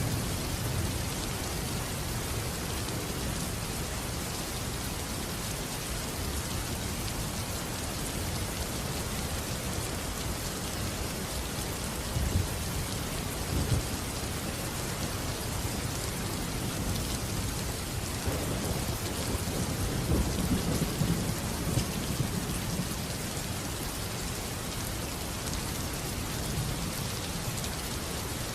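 Steady rain with rolling thunder. Low rumbles swell about twelve seconds in, with two sharper peaks a second and a half apart, and build again more strongly a few seconds later.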